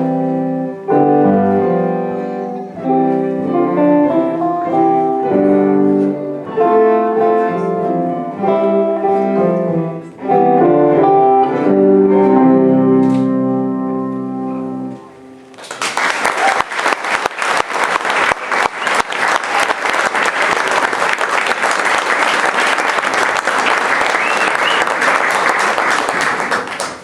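Live music with piano, in held chords, ends about fifteen seconds in, then an audience applauds steadily.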